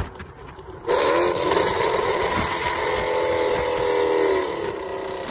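Sixth-generation Chevrolet Camaro accelerating at highway speed. Its engine note comes in hard about a second in, with a brief bending pitch, then holds a steady drone over wind and tyre rush.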